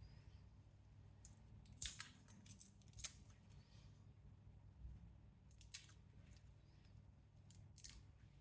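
A few short, sharp snips or clicks, irregularly spaced: a cluster about two to three seconds in and a couple more near the end, over a faint low hum.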